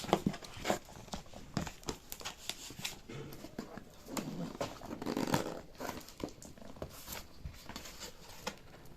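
Packaging being handled and opened by hand: scattered clicks, taps and crinkling rustles, thickest about four to five seconds in.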